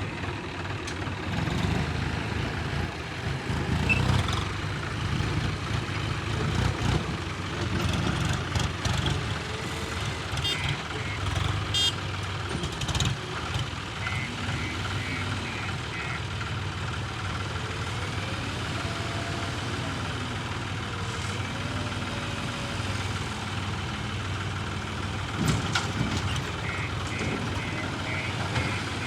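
Diesel engine of a JCB backhoe loader running steadily under work, with scattered knocks and clanks. A series of short, evenly spaced electronic beeps comes in about halfway through and again near the end.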